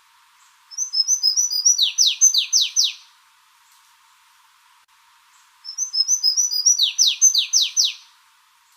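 A songbird singing two phrases about three seconds apart, each a quick run of short high notes stepping downward that ends in four loud sweeps falling sharply in pitch.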